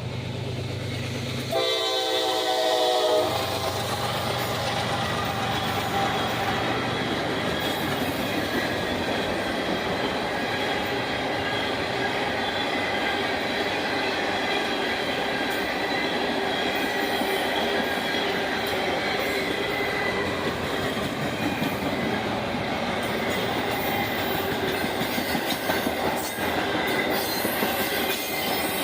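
A passing train's horn sounds a short blast about a second and a half in. The train then rolls steadily past, its wheels clattering on the rail joints with a faint squeal.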